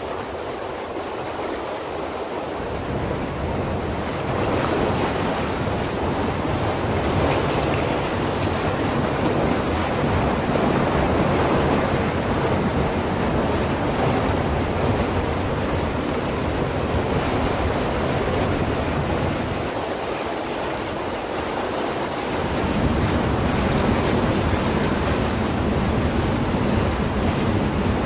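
Strong, fast-moving water rushing: a loud, steady wash of noise that builds a few seconds in.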